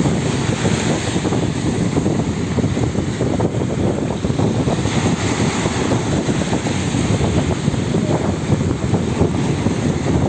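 Wind buffeting the microphone as a steady low rumble, over the wash of sea water.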